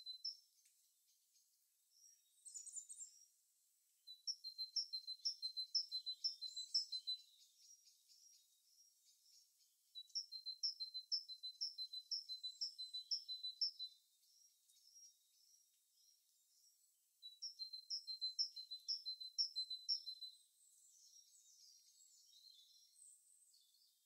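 A songbird singing a quick, high two-note phrase repeated many times over, in three bouts of about three to four seconds each. Softer, scattered calls from other birds come in between.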